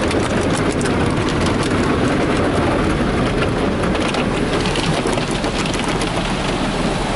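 Ryko SoftGloss XS2 automatic car wash machine passing back over the car, its water spray hitting the body and windows, heard from inside the cabin as a loud, steady wash of noise with fine pattering ticks.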